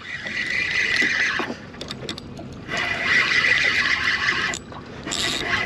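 Fishing reel being cranked in three spells as a small fish is reeled up, a mechanical whirring with a steady high whine through it.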